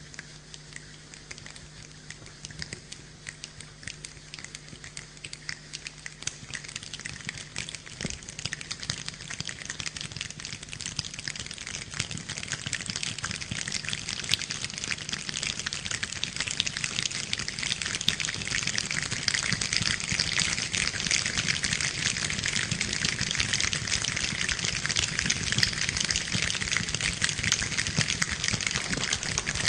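Rain pattering, a dense spatter of small drops that builds steadily louder.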